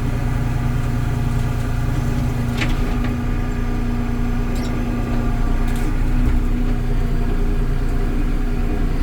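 Kubota L3560 tractor's diesel engine running steadily, with a few light clicks or knocks over it.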